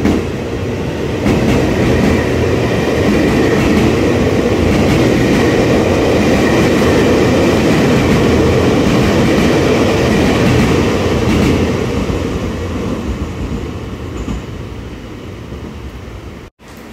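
Loud, steady rumbling of a passing vehicle. It builds about a second in, holds, and fades away over the last few seconds before cutting off abruptly near the end.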